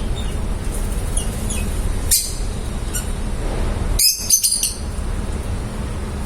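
Lovebirds giving short, sharp, high chirps: a single one about a third of the way in, then a quick cluster of several about two-thirds through. Under them runs a steady low hum.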